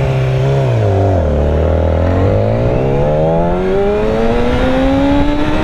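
Yamaha R6's inline-four engine dropping in pitch about a second in, then pulling up in one long, smooth rise in revs as the bike accelerates.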